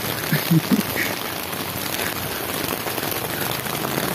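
Heavy rain falling steadily, an even hiss, with a couple of short louder sounds about half a second in.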